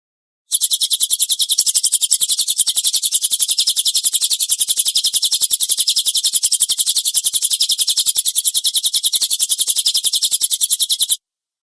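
Recorded cililin bird song in a rapid-fire 'tembakan kasar' burst: an unbroken, even run of sharp, high chips, about eight a second, that cuts off suddenly near the end. It is looped masteran audio played for caged songbirds to learn from.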